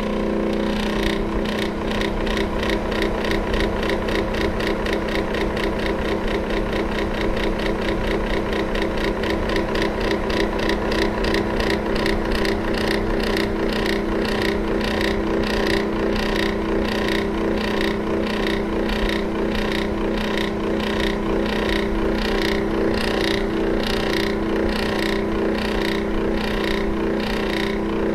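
Electric fan running: a steady motor hum with a fast, even ticking or rattle several times a second that sets in about a second in.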